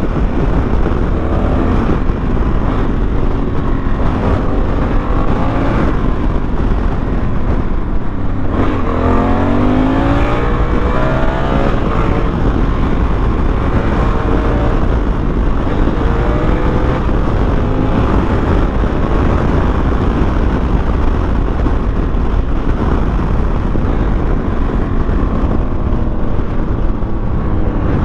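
Honda Africa Twin's parallel-twin engine running at road speed, its pitch rising several times as it accelerates, most clearly about nine seconds in.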